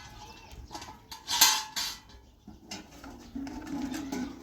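A few sharp clinks and clatters of hard objects, the loudest about a second and a half in, with a low hum near the end.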